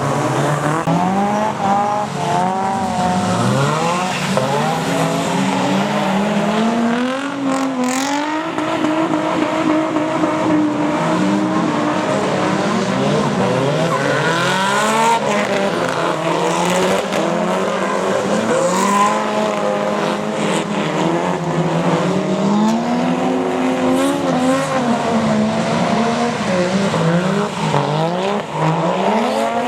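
Drift cars' engines revving up and down over and over, more than one engine at once, with tyre noise.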